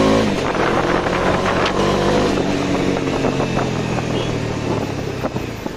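Bajaj Dominar 250's single-cylinder engine running under way, its note dropping at the start and then holding steady.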